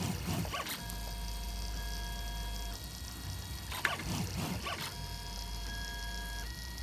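3D printer's stepper motors whining in steady tones that jump to a new pitch every second or two as the print head changes moves while printing a layer, over a low steady hum. A few short clicks come at the start and about four seconds in.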